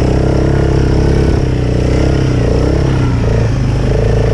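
ATV engine running steadily while riding, its pitch dipping and rising slightly in the middle.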